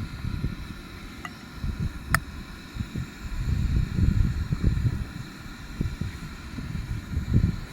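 Strong wind buffeting the microphone in uneven gusts, with one sharp click about two seconds in.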